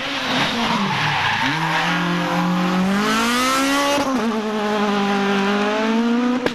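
Rally kit car engine at high revs: the pitch drops about half a second in, climbs again over the next few seconds, falls sharply about four seconds in, then holds fairly steady.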